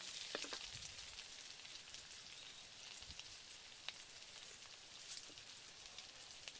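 Egg frying in oil in a wok: a faint, steady sizzle with scattered small pops and crackles.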